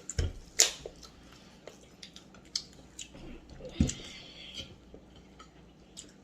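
Cutlery clinking and scraping on plates during a meal, with scattered sharp clicks, a brief scrape near the middle and a couple of soft thumps.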